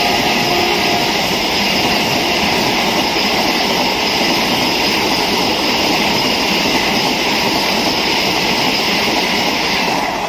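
Vande Bharat Express electric multiple-unit train passing close at speed: a steady, loud rush of wheels and air as the coaches go by. The horn's steady tones end about a second in. The rush eases off near the end as the last coach passes.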